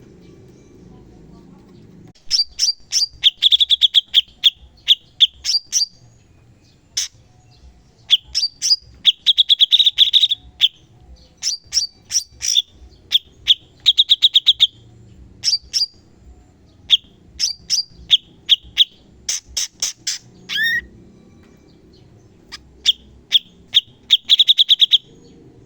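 Cucak cungkok song in rapid-fire phrases ("tembakan"): bursts of sharp, high chirps and fast trills, each lasting a second or two with short pauses between. The song starts about two seconds in.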